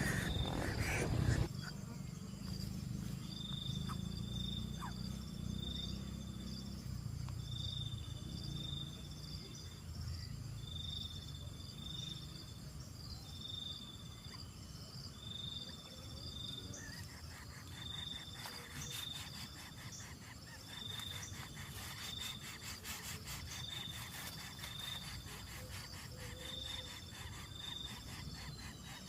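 Insects chirping: a short high-pitched chirp, often doubled, repeats about every one and a half to two seconds over a low background rumble. From a bit past halfway, a rapid clicking trill joins in.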